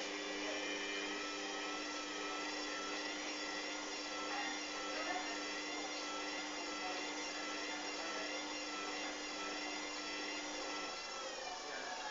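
Hoover washing machine's motor running with a steady whine at speed, as in a spin; its main tone cuts off about eleven seconds in.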